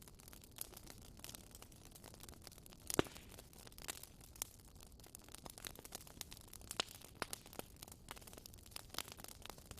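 Campfire crackling: wood burning with a low hiss and irregular sharp pops and snaps, the loudest pop about three seconds in.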